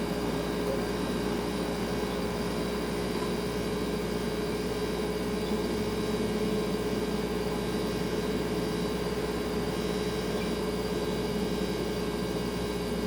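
Kitchen refrigerator running with a steady hum: one clear tone over a low rumble, with no change in level.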